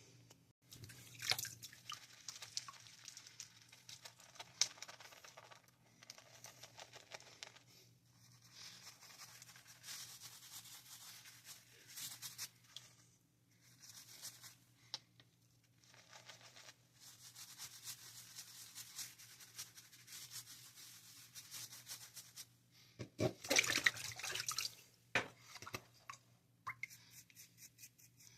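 Head wet shave: soft, scratchy strokes of lather being worked and shaved over the scalp, in stretches broken by short pauses, with a louder burst about 23 seconds in.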